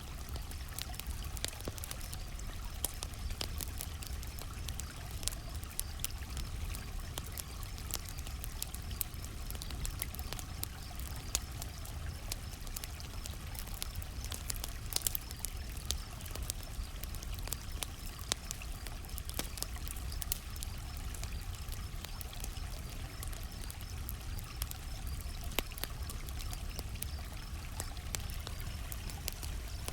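Campfire burning: irregular sharp crackles and pops of wood over a steady low rumble of the flames, with faint cricket chirping behind.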